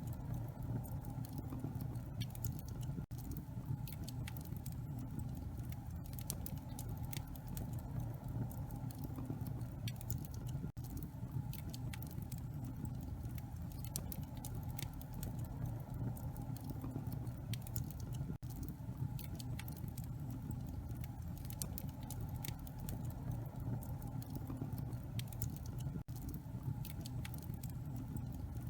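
Wood fire in a fireplace crackling: many small, sharp pops and snaps over a steady low rumble.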